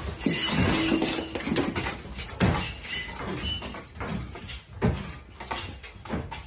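Indoor earthquake shaking: cupboard doors and loose household objects clattering and banging in quick, irregular knocks.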